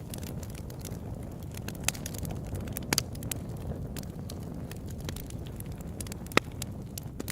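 Open-air campfire burning, with a steady low rumble of flames and scattered sharp crackles and pops of wood, the loudest about three seconds in and again near the end.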